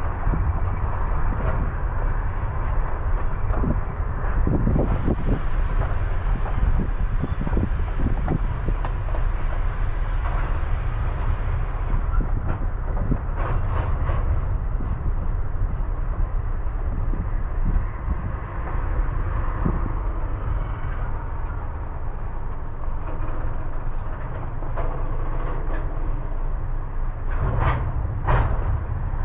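Baldwin-Westinghouse electric steeplecab locomotive with freight cars rolling along the track: a steady low rumble with scattered clicks and clunks from wheels and couplers. A hiss rises about five seconds in and lasts around seven seconds.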